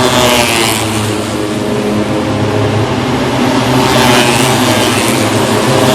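MotoGP racing motorcycles at full speed passing by on the track, one just at the start and another about four seconds in, each engine note sweeping past.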